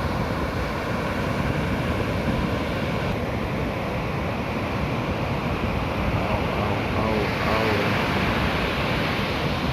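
Steady rush of ocean surf breaking and washing on a sandy beach, with a faint voice in the distance near the end.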